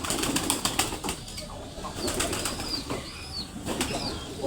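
Pigeons flapping their wings in quick bursts of clatter, at the start and again twice later, with short high bird chirps in between.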